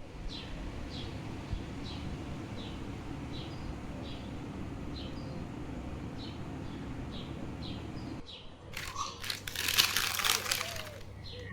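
A small bird giving a short chirp over and over, over a steady low rumble. About eight seconds in the sound changes abruptly to loud crinkling and rustling.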